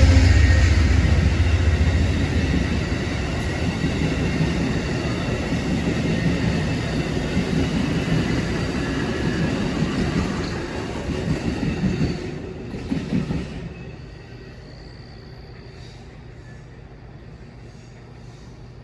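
A train passing on the rails: a diesel locomotive's low rumble fading over the first couple of seconds, then the cars rolling by, which cut off about thirteen seconds in, leaving a low steady background.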